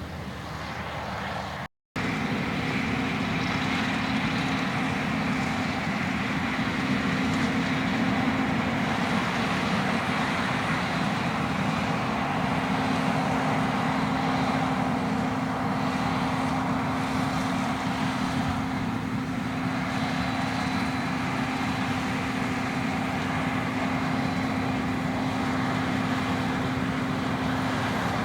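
Farm machinery engine running steadily under load, a constant drone with a steady hum, after a brief dropout to silence about two seconds in.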